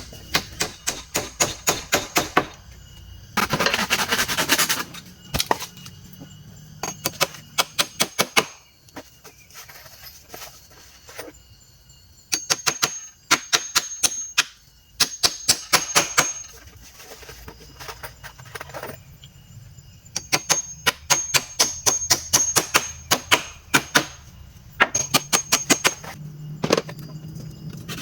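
Runs of rapid, sharp knocks, about five or six strikes a second, each run lasting a second or two, with short bursts of scraping or rustling between the runs.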